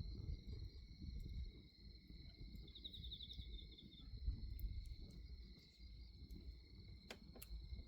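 Bonfire burning with an uneven low rumble and crackle, with two sharp pops near the end. Crickets sing steadily in high tones, and one gives a brief pulsed trill about three seconds in.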